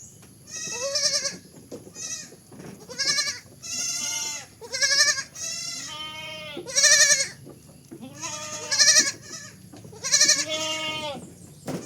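A goat bleating over and over: a string of short, quavering, high-pitched bleats, about one a second.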